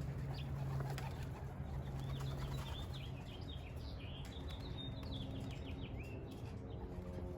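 Young racing pigeons' wings flapping as the flock flies around and lands, with a run of quick, high chirps from a bird from about a second and a half to six seconds in.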